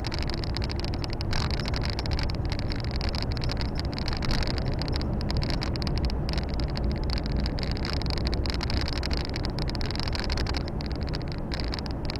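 Volvo FH 460 truck's 13-litre six-cylinder diesel running steadily under way, heard from inside the cab, with a steady low rumble and a constant hiss of road and tyre noise.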